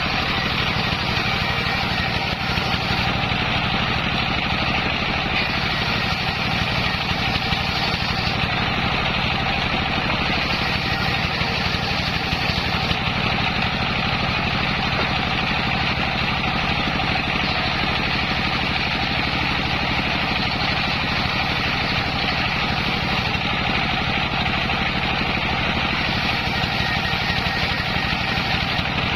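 The engine driving a homemade circular saw rig, running steadily with no change in pitch or level.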